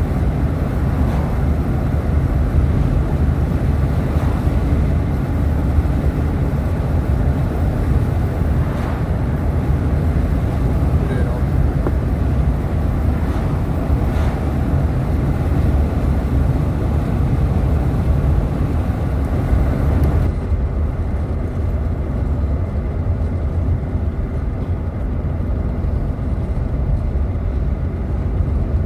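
Steady road and engine rumble heard from inside a moving car, with lighter tyre and wind hiss above it that drops away about twenty seconds in.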